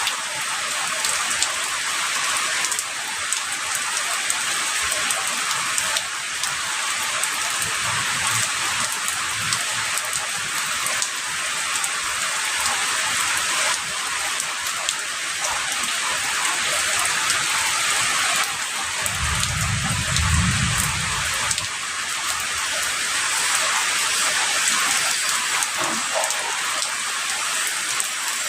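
Heavy rain falling steadily in an even hiss. A brief low rumble of distant thunder comes about two-thirds of the way through.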